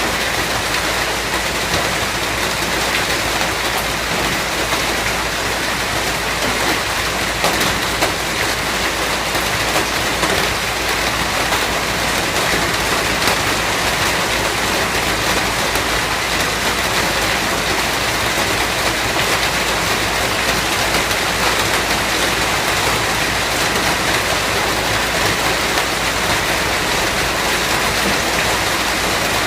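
Steady rain falling: an even hiss of rain with faint scattered drop ticks, and a constant low rumble underneath.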